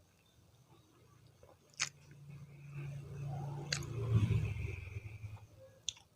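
Close-miked chewing of a mouthful of gizzard, liver, tofu and green chili, soft and wet. Three sharp clicks come at roughly two-second intervals.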